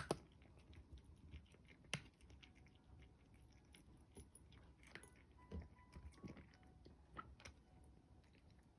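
A cat chewing food: faint, irregular crunching and clicking bites, with a few sharper ones, the loudest about two seconds in.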